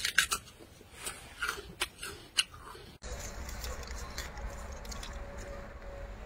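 Crisp bites and chewing of a firm green tree fruit, a scatter of short crunches, for about three seconds. Then an abrupt cut to a steady low rumble and hiss.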